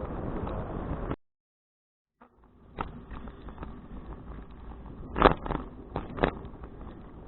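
Wind and road noise on an action camera during a bicycle ride, cut off by about a second of dead silence as the recording drops out. The noise then comes back quieter, with a few sharp knocks and rattles, the loudest about five seconds in.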